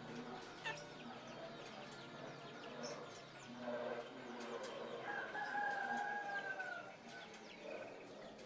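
Chickens clucking in the background, with a rooster crowing once about five seconds in: a long, drawn-out call that falls away at the end.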